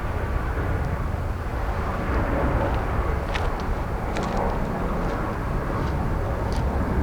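Jet airliner engines running with a steady low rumble, with a few faint short ticks over it around the middle.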